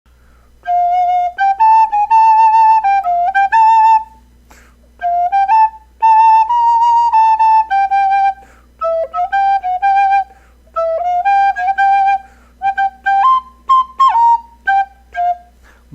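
A flute playing a simple melody alone, one note at a time, in short phrases with brief pauses between them, over a faint low hum.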